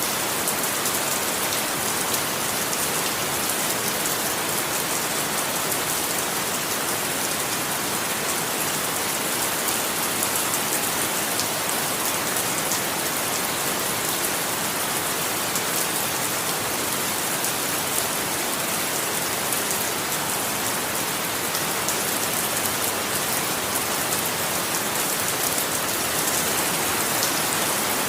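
Steady rain falling and pattering on a surface, an even hiss full of fine drop ticks.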